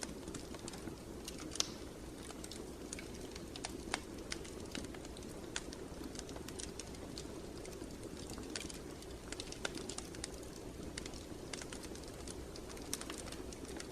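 Wood fire burning: a steady low rush of flame with irregular sharp crackles and pops, a few a second.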